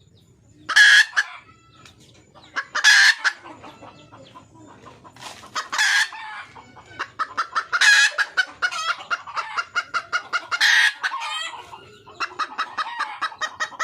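Red junglefowl hen calling: a loud short squawk every two to three seconds, with runs of quick clucks, about five a second, between them.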